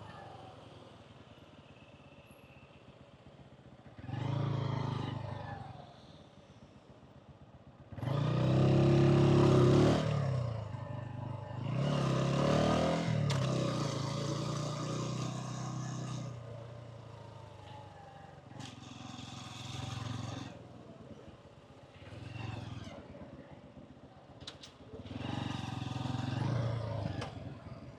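A 125cc motorcycle engine and exhaust accelerating in repeated bursts, the pitch rising with each pull and dropping back to a low idle or coast in between. The loudest acceleration comes about eight to ten seconds in.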